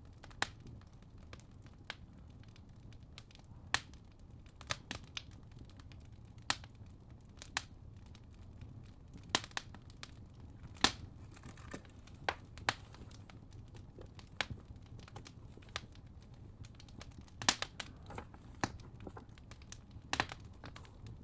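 Fireplace crackling: irregular sharp pops and snaps, about one a second and sometimes two close together, over a low steady rumble.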